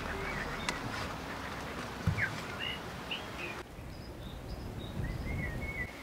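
Small birds chirping in short, scattered calls over steady outdoor background noise. A sharp click comes under a second in and a soft thump about two seconds in, and the background hiss drops suddenly a little past halfway.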